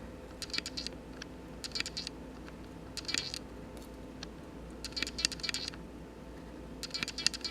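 Short runs of rapid, light clicking, five clusters about a second or two apart, over a faint room hum.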